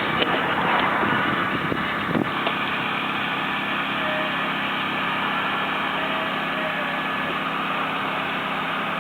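Car engine running steadily at idle, with a short knock about two seconds in.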